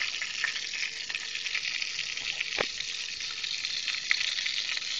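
Cicadas frying in hot bacon grease in a pan: a steady sizzle with many small crackles and pops, one sharper pop about two and a half seconds in.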